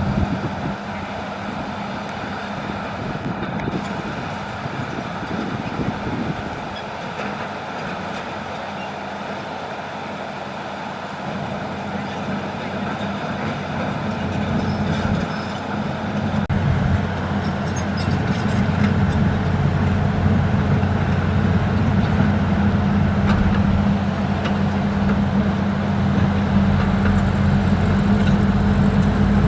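Hitachi excavator's diesel engine running with a steady hum, getting louder and heavier about halfway through as it works under load.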